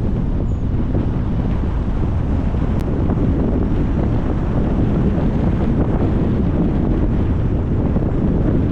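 Steady low wind rumble on the microphone of a moving car.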